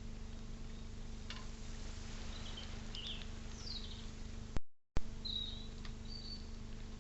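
Wild birds chirping faintly, a few short calls and one quick falling note, over a steady electrical hum. About two thirds in the sound cuts out for a split second between two clicks, a join between recordings.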